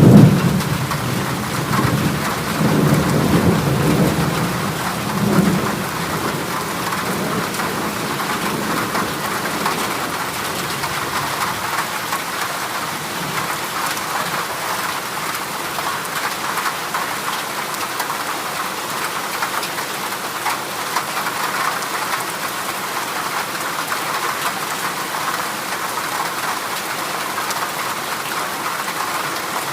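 Heavy rain drumming steadily on a corrugated zinc roof. A sudden clap of thunder right at the start rolls off as a low rumble over the first five or six seconds.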